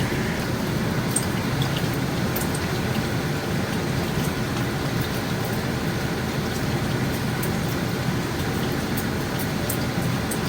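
Bacon strips frying in a pan: a steady sizzle with scattered small pops and crackles.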